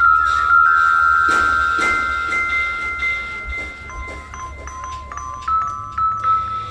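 Metal chimes of a playground musical instrument being struck: a loud strike at the start sets several notes ringing together and slowly fading, then a run of quicker single notes follows in the second half.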